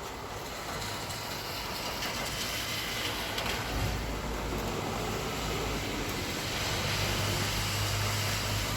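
Street traffic passing on a wet road: steady tyre hiss with a low engine rumble that builds from about halfway through as a heavier vehicle draws near.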